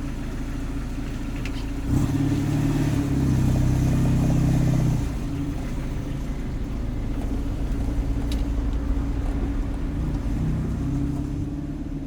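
Jeep Cherokee XJ engine pulling away: running steadily, then revving up about two seconds in and accelerating for a few seconds before settling into steady running.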